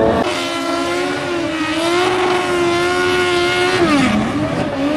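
Drag-racing engine running at high, fairly steady revs. Near the end the revs dip sharply, then climb back.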